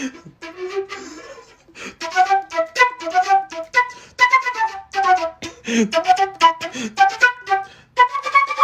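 Music: a quick, choppy tune of short notes, some sliding in pitch, on a flute-like wind instrument.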